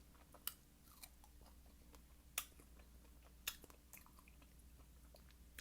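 Faint close-up mouth sounds of a person chewing juicy fresh fruit: soft wet chewing with a few sharper smacking clicks, the clearest about half a second, two and a half and three and a half seconds in.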